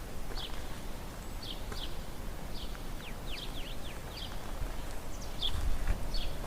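Small birds giving short, sharply falling chirps about once a second, with a quick run of several together around the middle, over a steady low outdoor rumble.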